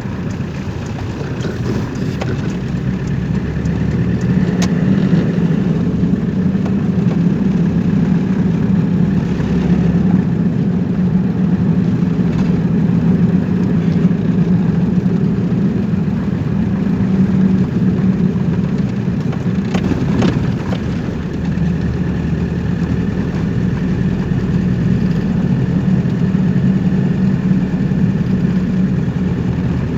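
Vehicle engine and road noise, running steadily while driving, with a brief swell about twenty seconds in.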